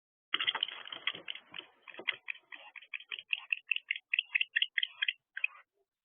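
Barn owls in an aggressive encounter: a fast train of short, clicking chitter calls, about five a second, stopping shortly before the end. Low thumps and rustling from the birds scuffling come with the calls in the first second or two.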